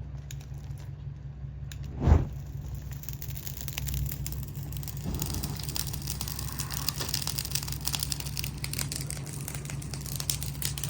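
A single dull thump about two seconds in, over a steady low rumble, followed by a continuing crackling, rustling noise.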